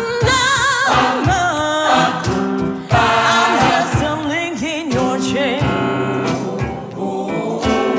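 Gospel choir singing a soul song with a band, a solo voice sliding through runs above the choir over a steady drum beat.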